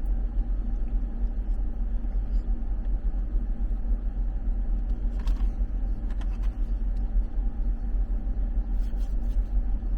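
Jeep engine idling, a steady low rumble heard from inside the cabin, running to defrost the frosted-over windows.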